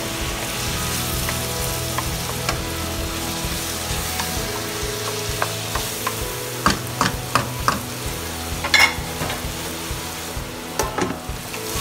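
Chicken pieces sizzling as they are sautéed in a pan, with a utensil clacking and scraping against the pan in a few quick clusters during the second half.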